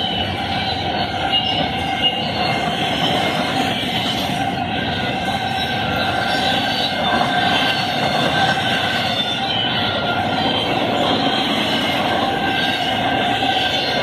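Double-stack intermodal well cars rolling past at track speed, about 60 mph: a steady rumble of steel wheels on rail with a high, steady squeal running through it.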